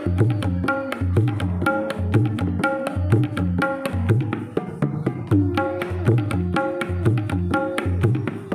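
Background music with a fast percussion beat, several strikes a second, over a repeating bass line and pitched melody notes.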